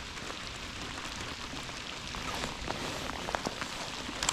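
Rain falling steadily, many small drop ticks over an even hiss, coming down a little hard.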